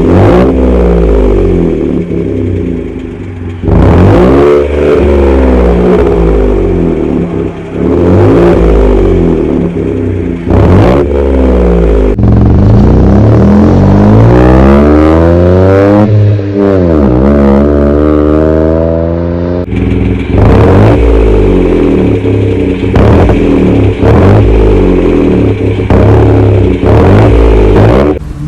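Vauxhall Corsa D engine through a custom cat-back exhaust, accelerating hard through the gears. The engine note climbs in pitch, breaks off sharply at each gear change and climbs again, many times over.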